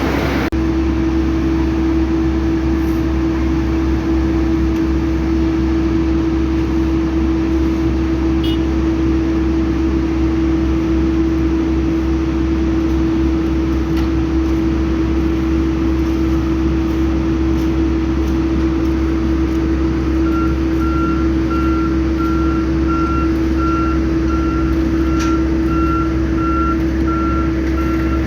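Heavy diesel construction machinery running steadily with a constant droning hum. About two-thirds of the way in, a reversing alarm starts beeping at an even pace, about once a second.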